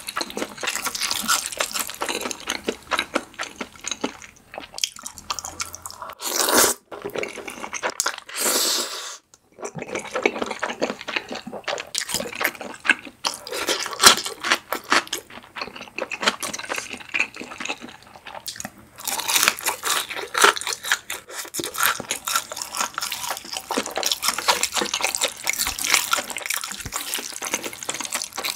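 Close-miked wet chewing and slurping of cream-sauced spaghetti, a dense run of small sticky mouth clicks, with two louder, longer slurps about six and a half and eight and a half seconds in.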